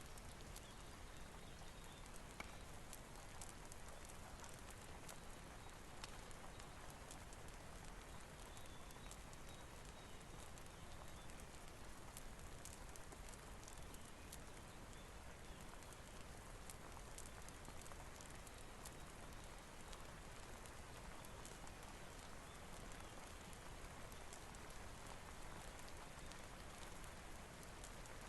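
Faint, steady rain hiss with scattered light ticks and crackles.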